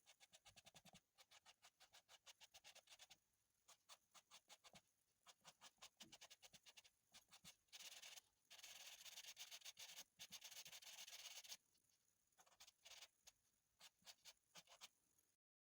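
Faint charcoal pencil scratching on paper in quick short strokes, about four or five a second, with a denser stretch of continuous shading about eight seconds in that lasts some three seconds. The strokes stop abruptly just before the end.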